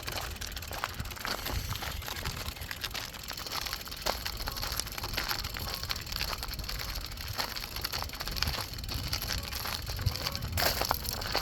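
Riding a bicycle: wind rumbling on the phone's microphone under a steady hiss of tyre noise, with frequent small clicks and crackling rattles.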